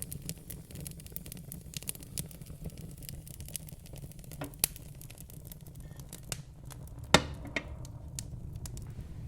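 Wood fire crackling in a fireplace: irregular snaps and pops over a low steady rumble of flames, with one loud pop about seven seconds in.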